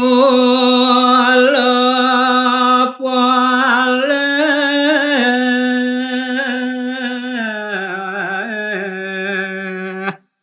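A solo male voice sings a line of Balinese geguritan in the pupuh Sinom melody. He holds long notes with wavering ornaments, breaks briefly for breath about three seconds in, and moves to a lower pitch after about seven and a half seconds.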